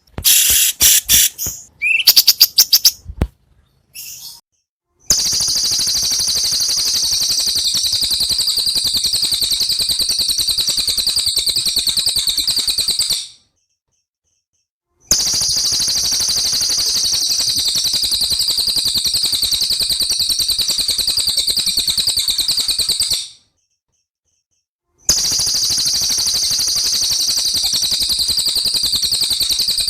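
Songbird song: a few sharp chirps, then a fast, even, high-pitched trill held for about eight seconds, breaking off and coming back twice after short silences.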